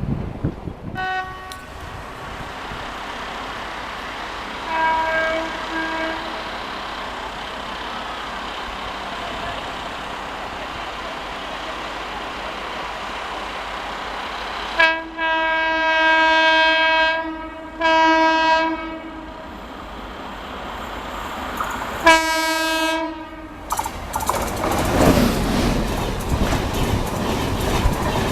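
An Indian Railways locomotive horn sounds a few short toots, then two long blasts and a third, as a train approaches. Near the end the rumble of the approaching train builds up.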